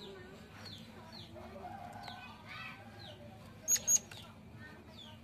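Forktail (murai air) calling: a run of short, falling, high whistled notes about twice a second, with two loud, sharp, very high notes about three-quarters of the way through. A faint steady low hum lies underneath.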